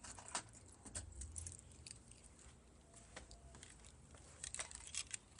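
A bunch of keys jangling, with light scattered clicks and a cluster of clicks near the end as a key works the door lock.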